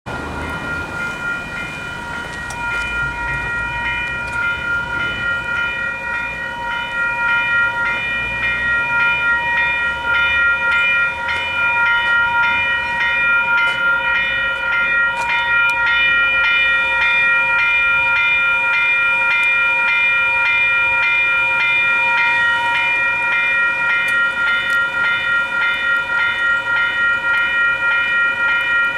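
Western Cullen Hayes electronic level-crossing bells ringing continuously: a fast, even, pulsing multi-tone ring set to the slower ring rate. The bells grow louder over the first ten seconds, while a low rumble fades out.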